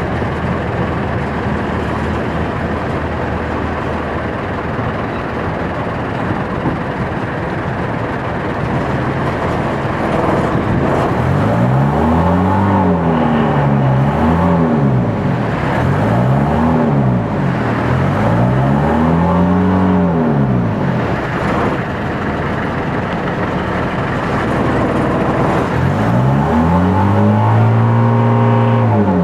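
Small boat's motor running steadily, then revved up and down several times as the boat is manoeuvred, each rise and fall of pitch lasting a second or two.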